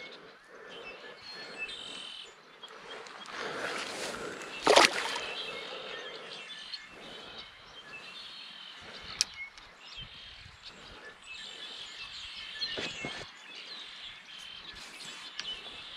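Birds chirping and calling over quiet open-air ambience, with a few handling knocks; the sharpest is a single click about five seconds in.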